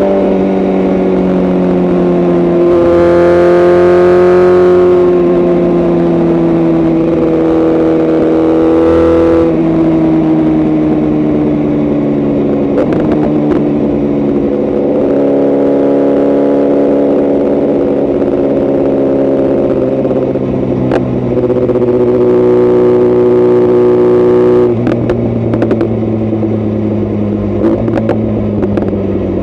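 Tuned BMW S1000RR inline-four motorcycle engine running under throttle, its pitch sinking slowly, with harder throttle in the first ten seconds. Near the end the throttle closes and the exhaust crackles and pops on the overrun.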